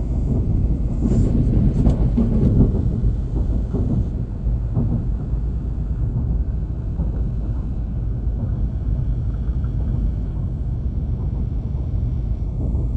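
Steady low rumble, a little louder for a second or two near the start.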